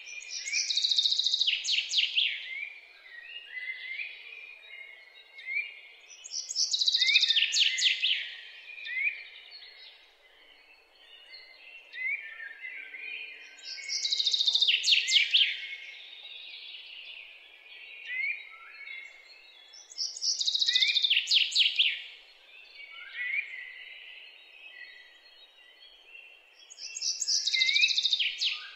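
Birdsong: a loud phrase of rapid high chirps and trills recurring about every six to seven seconds, with softer chirps and short rising calls between.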